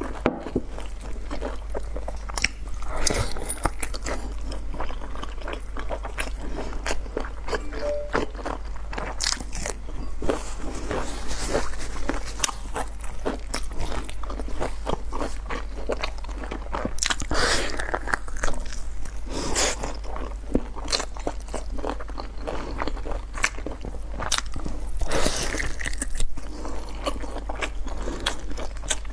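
Close-up eating: repeated crisp bites and crunchy chewing, many sharp crunches in quick succession, with louder bites every few seconds.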